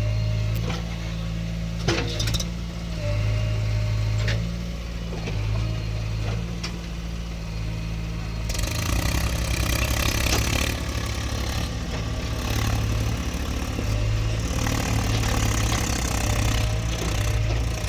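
Heavy diesel engine running and changing speed, with a sharp knock about two seconds in and a louder, rougher spell from about halfway.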